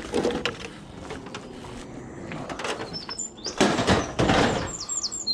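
A vehicle's sliding door being handled: knocks near the start, then a loud rolling rush of about a second near the end as it slides along its runner. Birds chirp briefly in the second half.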